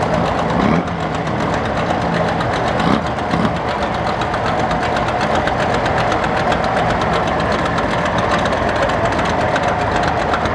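Antique car engine running steadily, with a fast, even mechanical beat.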